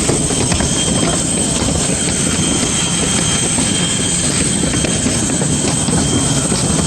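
Steady, loud jet aircraft noise: a continuous rumble and hiss with a thin, high, unchanging whine over it.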